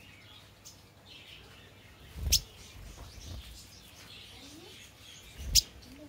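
Small birds chirping faintly, with two sharp clicks, each carrying a short low thump, about two seconds in and again near the end.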